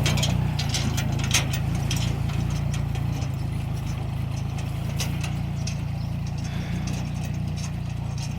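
Tractor engine running steadily, with scattered sharp clicks and rattles, most of them in the first couple of seconds.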